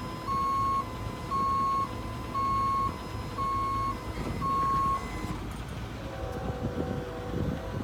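Bucket truck's warning beeper sounding about once a second over the running engine, five beeps that stop about five seconds in, as the PTO-driven hydraulics set the outriggers. Near the end, a lower steady hydraulic whine comes in over the engine.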